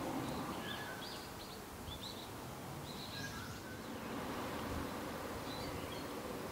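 Faint, scattered short chirps of small birds over a steady background hiss, most of them in the first few seconds.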